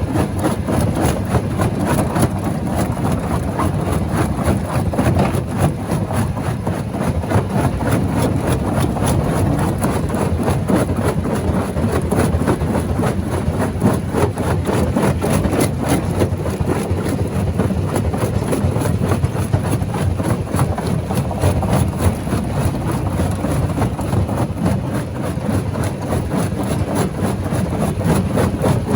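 Rock crusher running under load: a steady heavy rumble with continual small knocks and crunches of stone being broken.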